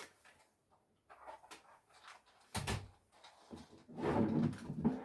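Household handling noises while cat food is being served: a sharp knock about two and a half seconds in, then a longer, louder bout of knocking and rustling near the end.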